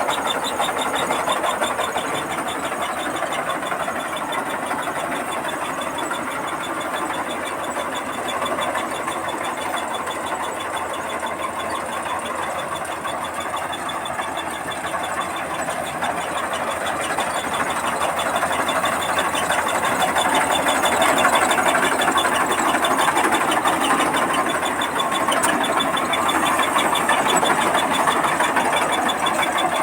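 Combine harvester running steadily while harvesting rice, its engine and machinery making a continuous busy mechanical noise with a fast fine rattle. It grows a little louder about two-thirds of the way through.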